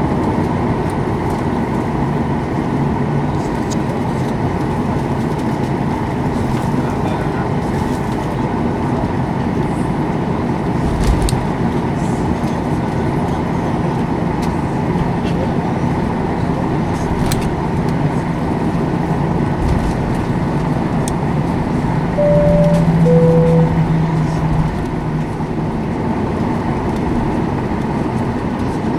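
Steady rumble inside a Boeing 737-800 cabin. About 22 seconds in, a two-tone high-low cabin chime sounds, and a few faint knocks are heard.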